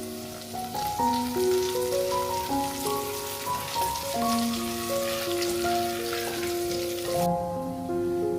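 Food frying with a crackling sizzle, over background music of slow, held melodic notes. The sizzle cuts off suddenly about seven seconds in, leaving the music.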